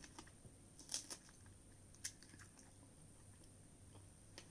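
Faint chewing of a bitten fresh strawberry, with a few soft, short mouth clicks, the clearest about a second in and about two seconds in.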